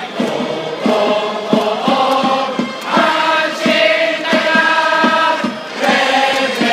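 Stadium crowd of Hanshin Tigers fans singing a cheering song in unison, with a steady drum beat keeping time.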